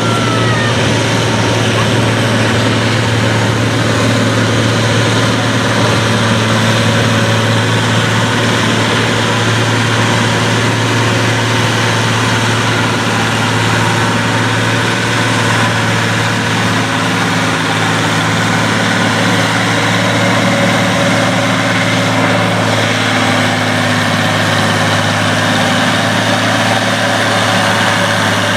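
Farm tractor engine idling steadily with a constant low hum, not revved or under pulling load.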